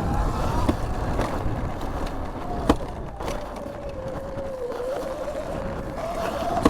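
2019 Sur-Ron electric dirt bike under way, its motor whine rising and falling with the throttle over wind rumble on the microphone, with one sharp knock about two and a half seconds in.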